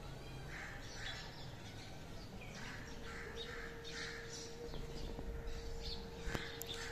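Birds outdoors calling in short, repeated chirps several times a second, with a faint steady hum joining about three seconds in.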